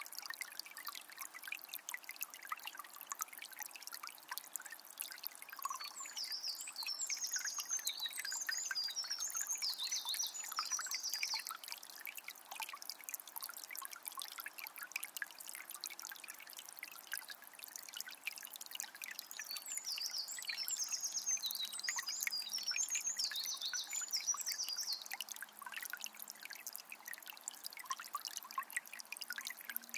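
Forest river flowing and trickling steadily over stones. A bird sings two runs of quick, high chirping notes, about six seconds in and again about twenty seconds in.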